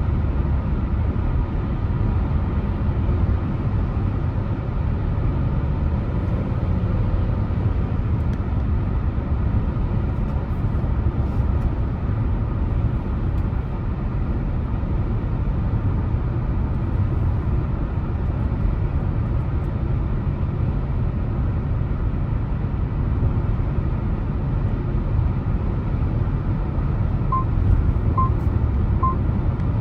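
Car driving along, a steady low rumble of road and engine noise. Three short high beeps sound evenly spaced near the end.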